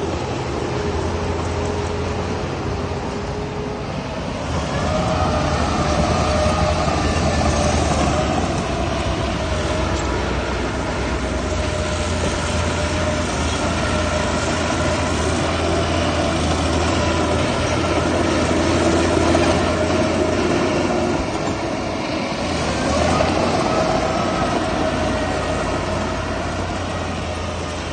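Heavy diesel earthmoving machinery running steadily under load, with held whining tones that swell about five seconds in and again near the end.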